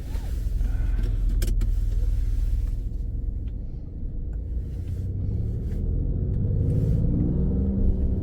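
Alfa Romeo Stelvio Quadrifoglio's twin-turbo 90-degree V6, fitted with K&N air filters, running as the car moves off, its note rising as it accelerates near the end. A single sharp click about a second and a half in.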